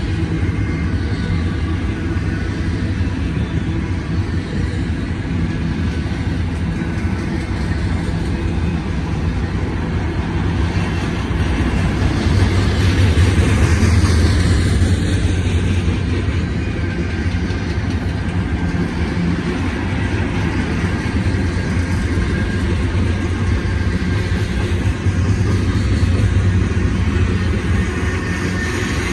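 Double-stack container well cars of a BNSF intermodal train rolling past close by: the steady rumble of steel wheels on the rails, swelling a little about halfway through.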